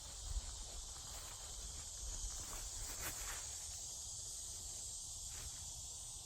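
Steady high-pitched insect drone in the woods, with a few faint rustles, the loudest about half a second in.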